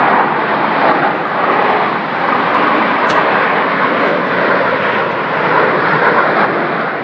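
Airplane engine noise from a plane flying over, loud and steady.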